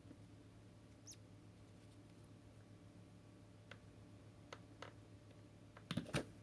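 Faint scattered clicks, then a quick cluster of louder knocks near the end, from the plastic parts of a cordless stick vacuum being handled, over a low steady hum.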